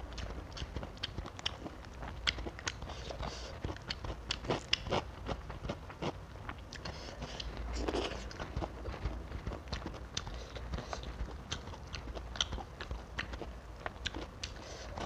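Close-miked eating: chewing fried tilapia and rice, with many short sharp mouth clicks and crunches throughout.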